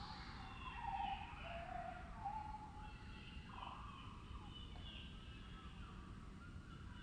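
Wild birdsong slowed down two and a half times, so the calls come out lowered in pitch and drawn out into slow gliding, warbling phrases. The loudest phrase comes about a second in, and quieter ones follow through the rest.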